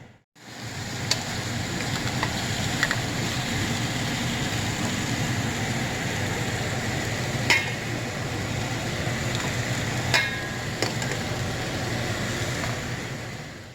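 Steady kitchen cooking hiss with a few sharp knocks of utensils, one about ten seconds in followed by a short rattle.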